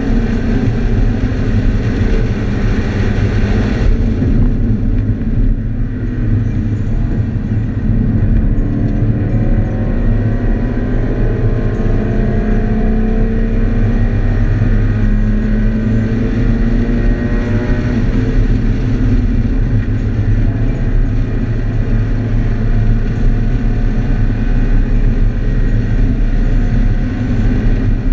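2013 Scion FR-S's 2.0-litre flat-four engine heard from inside the cabin under hard track driving. Its pitch rises in two long pulls through the middle as the car accelerates.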